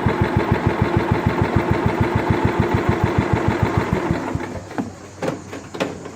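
Kohler Command 16 hp engine of a Scotts lawn tractor idling steadily, about ten firing pulses a second, before shutdown so it won't backfire. About four seconds in it is switched off and runs down to a stop. A few light clicks follow.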